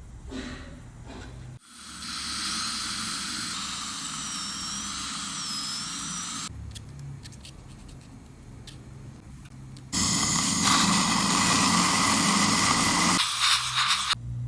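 Dental equipment running in abrupt stretches: a steady hiss with a high, wavering whine for a few seconds, then, after a quieter gap with a few clicks, a louder steady hiss from about ten seconds in until shortly before the end.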